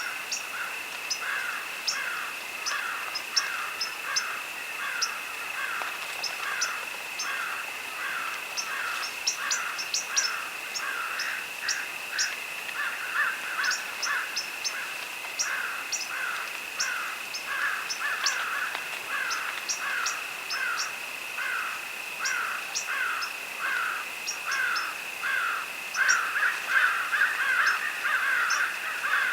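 Field ambience: crickets give a steady high trill under a continual run of harsh falling calls, about two a second, from crows cawing, which grow louder near the end. Short high bird chirps are scattered over it.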